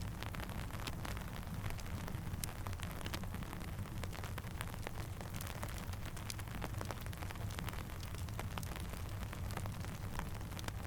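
Steady rain over a low rumble, with many small sharp crackles and pops scattered throughout, like a campfire burning.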